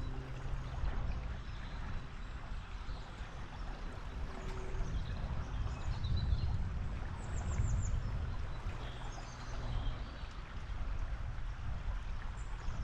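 A river running, a steady rush of water with a heavy low rumble. A few faint high bird chirps come through in the middle, among them a quick run of falling notes.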